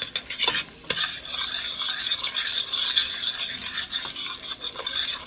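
Curry with garlic and ghost pepper sizzling in melted butter in a pot while being stirred, with a few clicks of the utensil against the pot in the first second.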